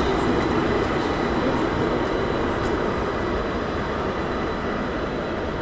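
A train moving through the station: a steady rumble that slowly gets a little quieter, with a faint steady high whine above it.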